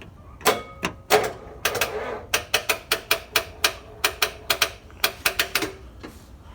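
Starter solenoid clicking rapidly without the engine cranking, a diesel no-start despite 12.8 volts at the battery and starter. Two loud single clicks come first, then a string of sharp metallic clicks at about four to five a second that stops a little before the end.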